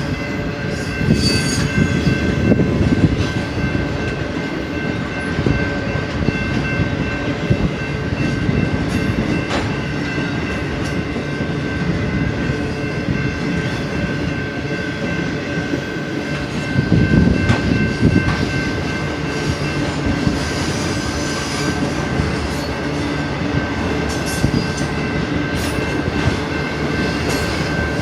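Intermodal freight train cars rolling past: a steady rumble with a thin, steady wheel squeal above it and occasional clicks of wheels over the rail, swelling louder once about two-thirds of the way through.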